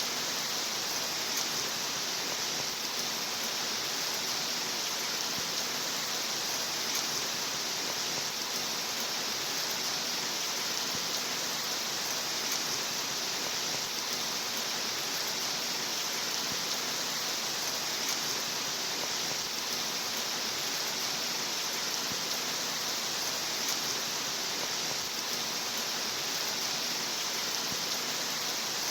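Steady rain as an even, unchanging hiss, with no single drops standing out.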